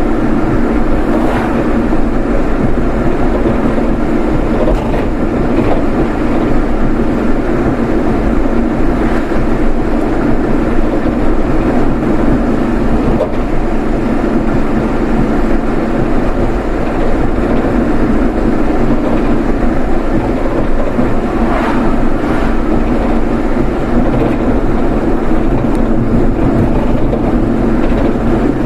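Steady road and engine noise of a car being driven, an even rumble with no break.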